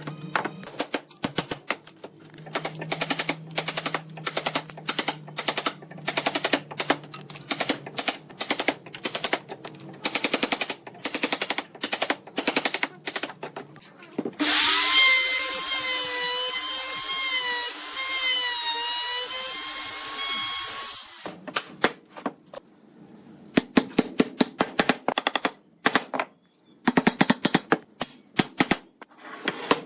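Woodworking tools knocking on wood in quick runs of sharp strikes, broken in the middle by a power tool motor running with a steady whine for about six seconds.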